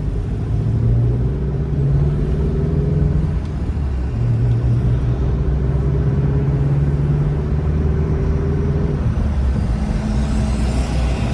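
Car engine and tyre rumble while driving in traffic, the engine note climbing steadily twice as the car accelerates and dropping about nine seconds in.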